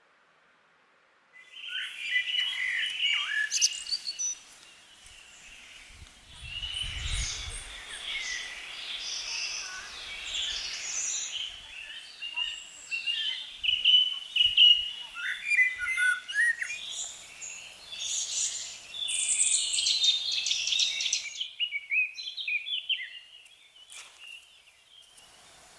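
Songbirds singing, several overlapping chirping phrases. It starts abruptly about a second and a half in and cuts off sharply a few seconds before the end, with a brief low rumble around seven seconds in.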